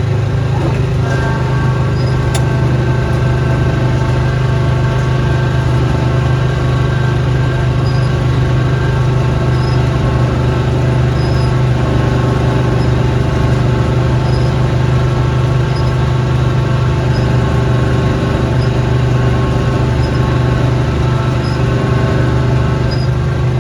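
Snowblowing machine's small gasoline engine running steadily, a constant drone with no change in speed.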